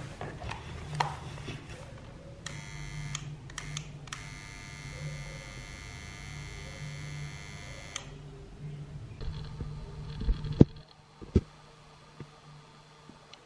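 Restored digital studio flash unit switched on and testing: a low hum with a steady, high-pitched electronic whine for about five seconds, then a loud click near the eleven-second mark, after which the hum stops.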